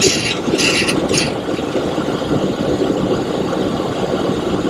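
Steady noise of airflow and engines in the cockpit of a Boeing 727-200 climbing after takeoff, with a few brief hissing bursts in the first second.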